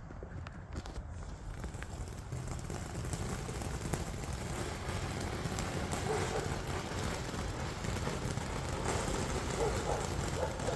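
Lit Mini Jumbo firework fountain hissing as it starts to burn, slowly getting louder.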